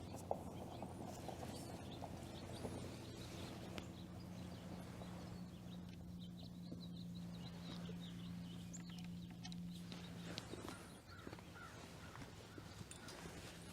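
Highland cattle moving and grazing close by, with scattered soft clicks and knocks. Under them runs a steady low hum that stops about ten seconds in, and there are a few faint high bird chirps.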